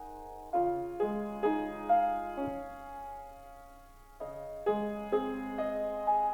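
Solo piano playing slow, gentle chords with a melody on top, the notes struck about every half second and left to ring, with a held, fading stretch in the middle.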